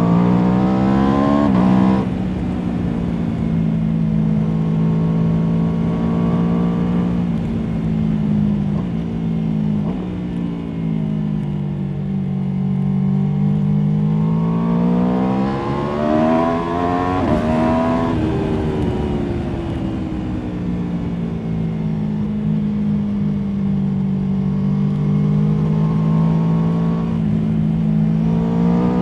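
Aprilia Tuono V4's V4 engine under way: revs climbing, then a sudden drop in pitch about two seconds in at an upshift, a steady stretch, a long rise to a peak in the middle and a slow fall back as the throttle comes off, and revs climbing again near the end.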